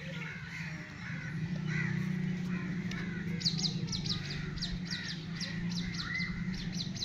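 Birds calling over a steady low hum: a few caw-like calls, then from about halfway through a rapid run of short, high chirps, about three a second.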